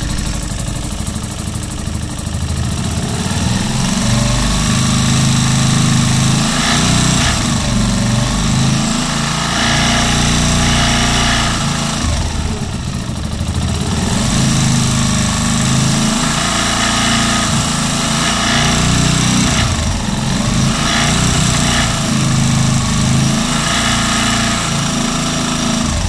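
Keeway Superlight 125 motorcycle engine running, its pitch dipping and rising again a few times, with the strange noise and vibration the owner is showing as a fault.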